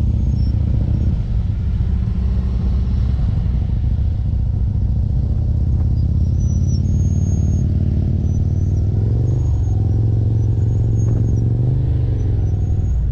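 Motorcycle engine running steadily, its pitch rising and falling as the throttle changes a few times in the second half.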